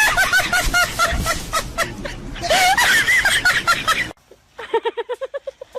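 High-pitched laughter in quick repeated bursts. About four seconds in it cuts off suddenly, and a second run of short, rapid laugh-like pulses follows.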